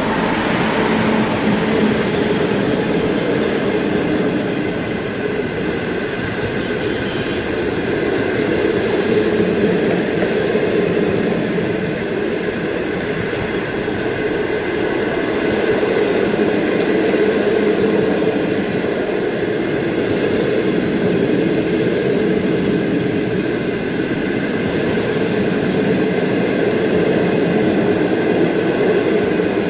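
Locomotive-hauled passenger train passing close by, a steady rolling noise of steel wheels on the rails as the line of coaches goes past.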